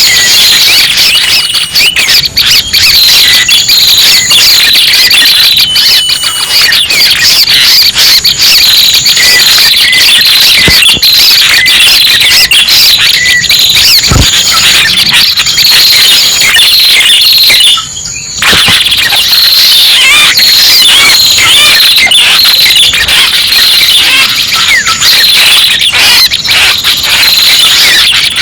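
Loud, dense chatter of small songbirds, the many high chirps and trills overlapping without a pause, from a lure recording for trapping red-headed prenjak. It breaks off briefly about eighteen seconds in.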